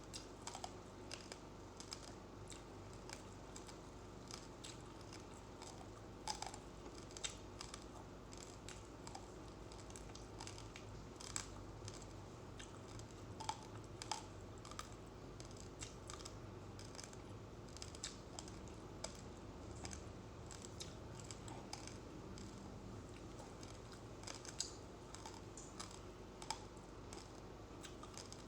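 Uncooked rice grains being crunched between the teeth: a quick, irregular run of small crisp cracks.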